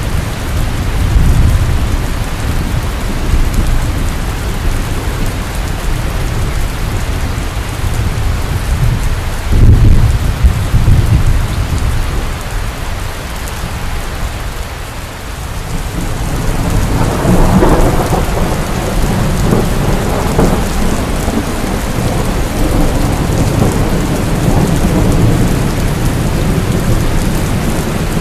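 Heavy rain falling steadily, with deep rolling thunder rumbling underneath that swells about a second in, again around ten seconds in, and once more past the middle.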